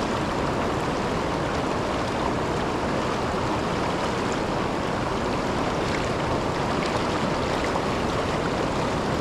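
Steady rush of river water spilling over a waterfall.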